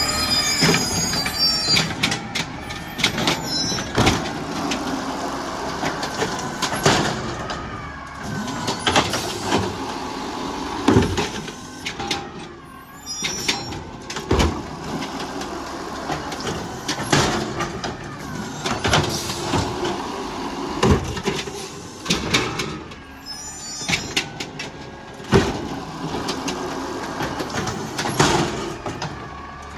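Garbage truck working at the curb: its engine running and revving, with a whine that rises and falls as the hydraulics work, and repeated sharp bangs and knocks of carts being lifted, dumped and set down.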